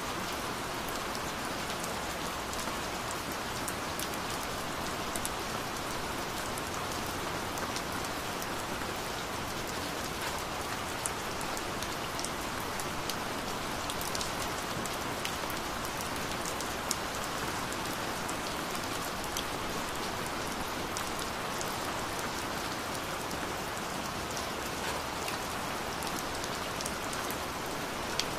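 Gentle rain falling steadily: an even hiss with scattered sharp ticks of individual drops on top.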